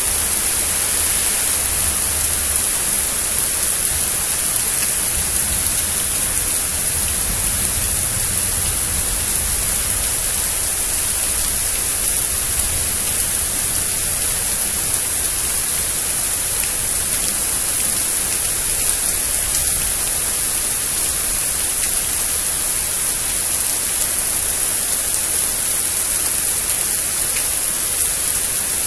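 Heavy rain falling steadily, a dense, even hiss with no breaks. A faint low rumble swells and fades roughly seven to thirteen seconds in.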